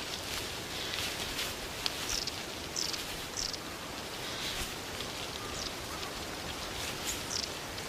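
Forest ambience: a steady hiss like light rain or rustling leaves, with short, high-pitched falling chirps every second or so.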